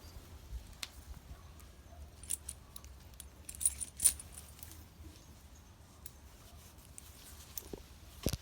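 Small metal parts jingling and clinking in a few separate short bursts, the loudest about four seconds in, with a dull knock near the end.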